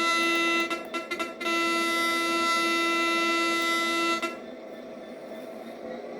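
Locomotive horn sounding a chord: a few short toots, then a long blast that cuts off about four seconds in. After it, the quieter steady sound of the train running past.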